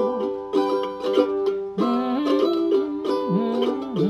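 Instrumental break of an acoustic folk song: a mandolin picking a melody over plucked chords, with no singing.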